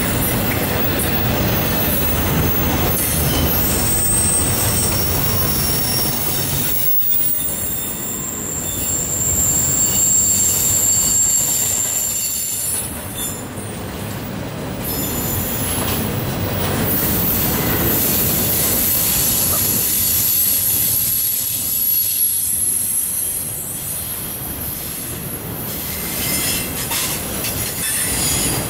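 Double-stack intermodal well cars rolling past at speed: a continuous rumble and rattle of steel wheels and trucks on the rail, with thin, high-pitched wheel squeal coming and going.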